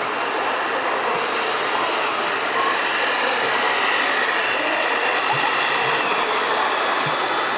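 Steady mechanical running noise, with faint high-pitched whines that strengthen about halfway through, as of vehicle motors running.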